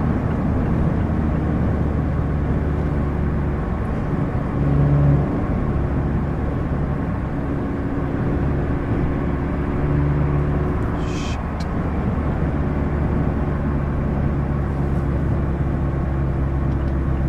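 Mazda MX-5 Miata four-cylinder engine through a RoadsterSport race exhaust, heard from the driver's seat with the top down, cruising at a steady note under wind and road noise. There is a brief swell in the engine note about five seconds in and a short high hiss about eleven seconds in.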